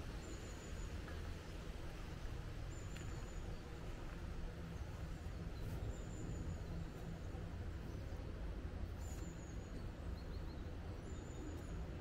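Outdoor park ambience: a steady low rumble with a small bird's short, high, slightly falling call repeating about every three seconds.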